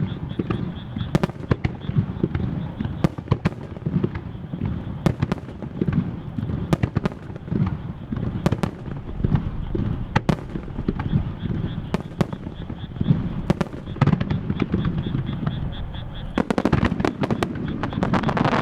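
Star mine fireworks barrage firing in rapid succession: a dense run of sharp bangs and crackles over a continuous low rumble of shell bursts, with a thicker, heavier volley near the end.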